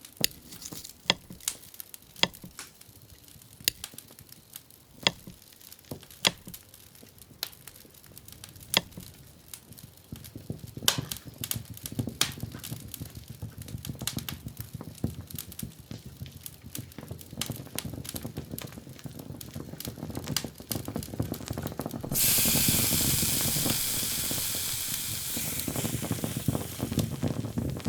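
Scattered sharp clicks and crackles, under a low rumble that builds, then about 22 seconds in a sudden loud sizzling hiss that slowly fades.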